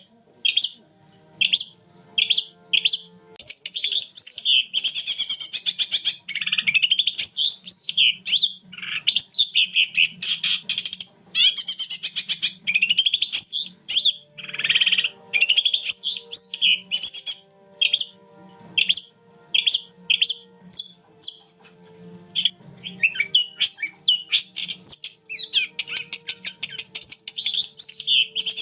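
Long-tailed shrike singing loudly and almost without pause: rapid, varied runs of high chirping and chattering notes, broken by a few short gaps.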